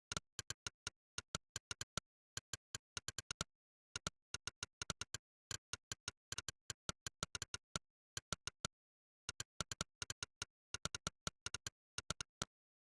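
Monkeytype's 'click' keypress sound effect: a sharp click for each keystroke, coming in quick runs of several with short silent pauses between them. The clicks stop shortly before the end.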